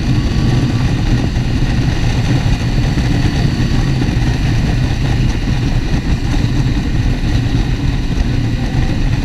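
Motorcycle engine running at a steady pace while riding, under a steady rush of wind and road noise.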